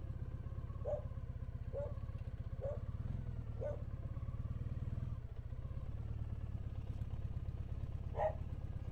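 Small dog barking four times, about a second apart, then again near the end, over a Triumph Bonneville's parallel-twin engine running steadily at low revs.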